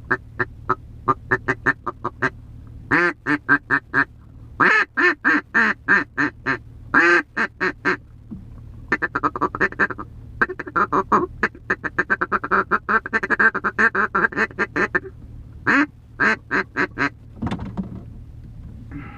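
Hand-blown mallard duck call sounding strings of hen quacks, with a fast, rapid run of notes through the middle, like a feed chatter, and a few loud quacks near the end. A steady low hum runs underneath.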